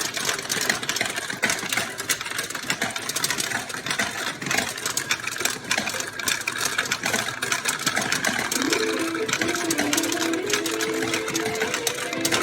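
Woody Woodpecker pachinko machine in play: steel balls rattle through the pins in a dense, continuous patter of rapid clicks. About two-thirds of the way through, the machine's simple electronic beeping tune comes in over the clatter.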